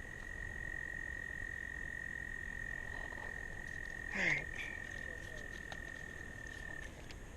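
A frog trilling: one steady, high, unbroken note held for several seconds that stops near the end. About four seconds in there is a brief louder sound that falls in pitch.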